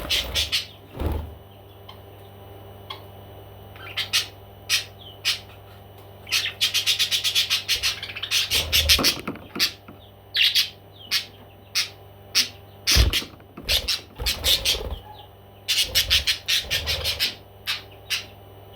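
A parrot chirping in short, sharp calls, with a fast run of rapid chirps near the middle. A few low thumps come in between the calls.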